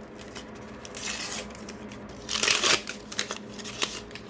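Paper sticker packet being torn open: a short rustle about a second in, a louder tear about two and a half seconds in, then light crinkles and ticks as the wrapper and stickers are handled.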